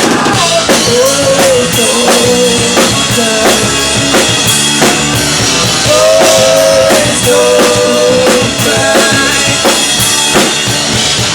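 Live rock band playing between sung lines: a drum kit keeps a steady beat under bass and a held melody line.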